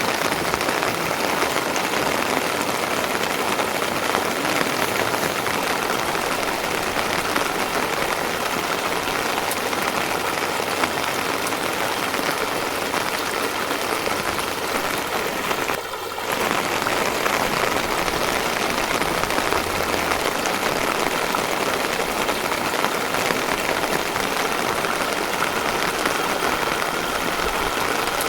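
Steady rain falling, an even hiss with a brief dip about halfway through.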